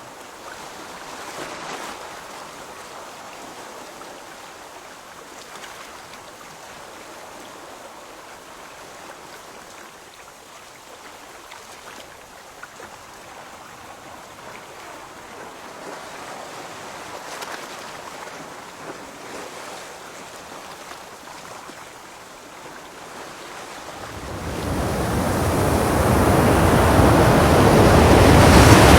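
Sea water washing and splashing at the surface as a steady rush. Over the last five seconds it swells into a much louder, deeper rush.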